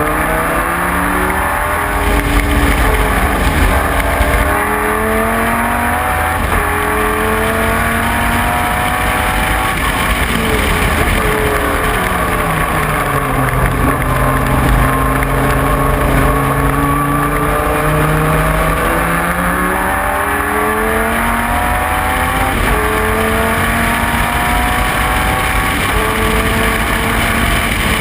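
Dodge Viper race car's V10 engine at racing speed, its pitch climbing in steps through upshifts, then dropping steeply as it brakes and downshifts about a third of the way in. It pulls low for a few seconds, then climbs through the gears again.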